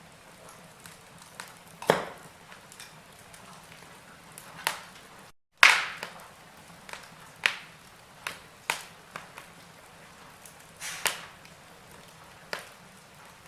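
Log fire in a fireplace crackling: irregular sharp pops and snaps over a soft hiss, a few of them much louder. The sound drops out completely for a moment about five seconds in.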